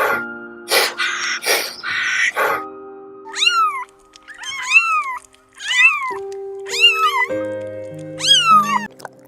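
A cat meowing five times, each meow rising and then falling in pitch, over background music. The meows are preceded by a few harsh, noisy calls in the first couple of seconds.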